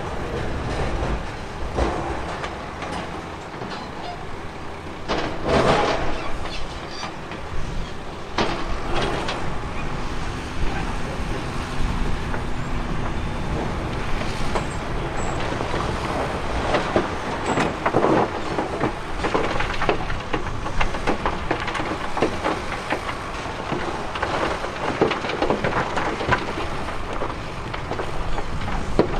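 Diesel earthmoving machinery working over rock: a steady engine running under irregular clatters, knocks and scrapes of stone, with the loudest crashes about five seconds in and again around eighteen seconds.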